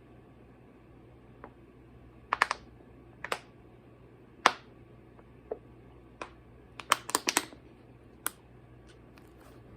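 Irregular sharp clicks and taps, some in quick pairs and a fast cluster of several about seven seconds in.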